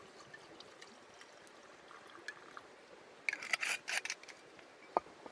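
Whisky poured from a bottle into a cup: a short, splashy burst lasting under a second, then a single sharp knock near the end.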